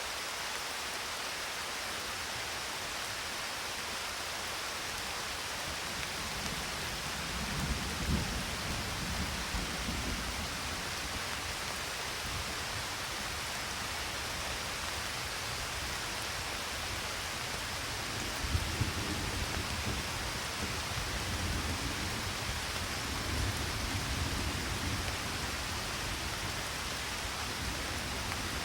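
Steady rain hissing, with two spells of low rolling thunder rumbling, one about six seconds in and a longer one from about eighteen seconds.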